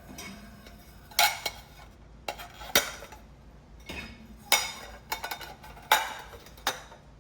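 Dishes and cutlery clinking and knocking as they are taken out of a dishwasher and put away. There are about ten sharp clinks, irregularly spaced, and some of them ring briefly.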